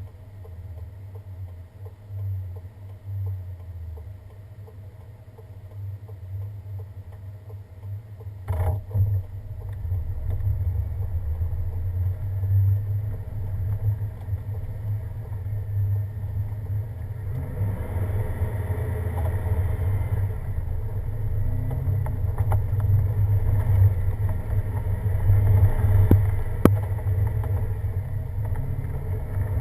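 Vehicle driving on a snow-covered winter road, with a steady low engine and road rumble. There is one sharp knock about nine seconds in, and the rumble grows louder and rougher from about seventeen seconds on.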